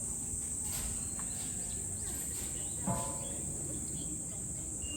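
A steady, high-pitched chorus of insects, with a low background hum beneath it. A short pitched call cuts in about three seconds in.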